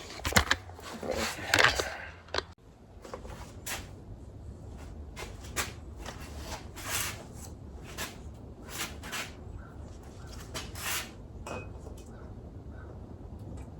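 Scattered light knocks and clicks of tools, containers and fork parts being handled, over a low steady hum.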